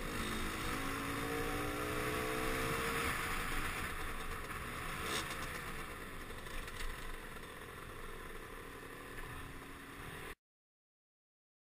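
Beta 50 cc two-stroke motorcycle engine revving up through the first few seconds, then running on under a steady rush of wind and road noise. The sound cuts off suddenly near the end.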